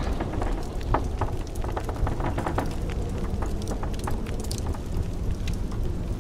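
Wood fire crackling, with frequent irregular sharp pops, over a steady low rush of blizzard wind.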